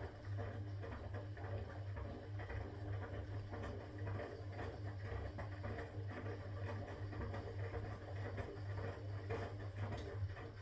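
Constructa K4 washing machine running: a steady low motor hum that swells and dips, with the irregular rattle and swish of the turning drum.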